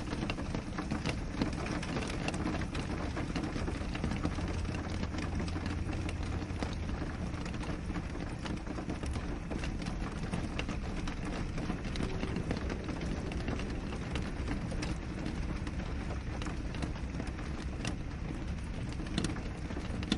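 Steady rain on a window: a constant even hiss with many small drop ticks scattered through it.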